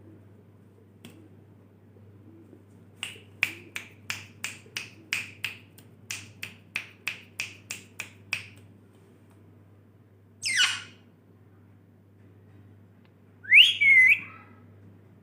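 A parrot makes a run of short, sharp clicking notes, about three a second with a brief break partway. Then it gives two loud screeches, the second rising sharply in pitch near the end.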